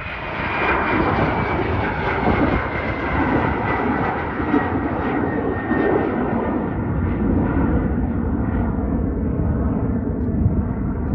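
Jet engines of a departing Embraer E190, two General Electric CF34 turbofans at takeoff thrust, running loud and steady after swelling up in the first second. A thin engine whine slowly falls in pitch as the jet passes, and the hiss fades toward the end.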